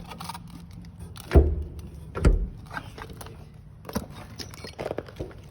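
Heavy thuds about a second apart, the first two loudest, with light metallic clicks and rattles between them.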